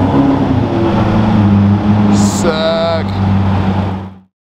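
Lamborghini Murciélago's V12 running with a steady low drone as the car creeps along. A brief voice breaks in about halfway, and the sound fades out just before the end.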